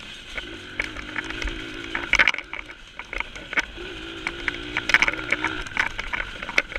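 Small dirt bike engine running at low, fairly steady revs while riding a trail, with frequent short clicks and rattles over the top. The exhaust is loose and needs tightening.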